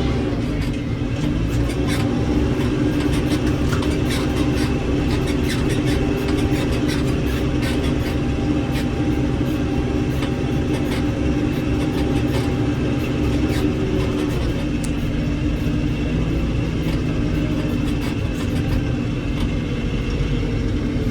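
Heavy diesel engine running steadily under load, with frequent clanks and knocks over its drone and a small change in engine pitch about two-thirds of the way through.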